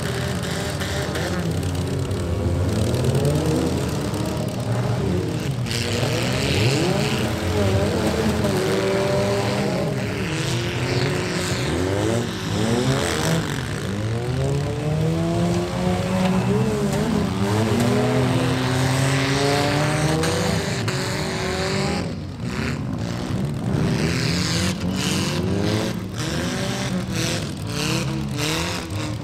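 Several small cars' engines revving hard at once in a mini demolition derby, their pitches rising and falling over one another as the cars push and spin on the dirt.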